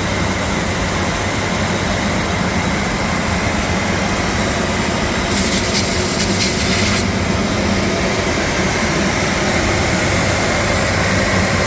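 Biesse Akron 850 edgebanding machine running, a steady mechanical hum with a constant whine. Near the middle a hiss cuts in for about a second and a half, then stops.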